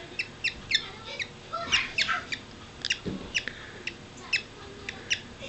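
Baby parakeet (budgerigar chick) cheeping: short, high-pitched chirps that drop slightly in pitch, about three a second in an uneven run.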